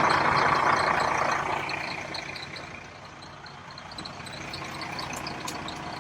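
The engine of a 1990s motorhome running, fading over the first three seconds and then holding at a lower, steady level.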